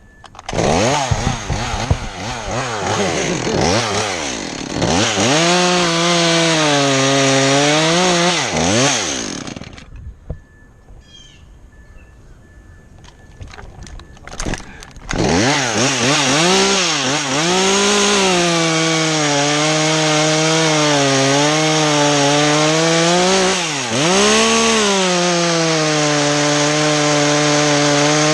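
Two-stroke chainsaw cutting wood, its engine pitch dipping and picking back up again and again under load. It stops about ten seconds in and starts up again some five seconds later. Its owner says it is running badly because the bar was mounted upside down.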